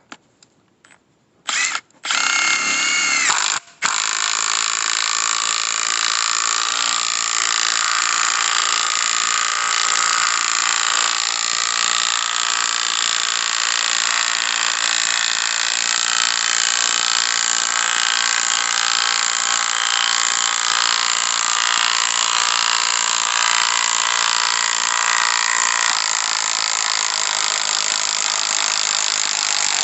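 Cordless impact wrench with a drill chuck adapter driving a screw-cone firewood splitting bit into a log. It gives two short starts, then runs in one long continuous rattling hammer under load; the sound is very loud ("too noisy").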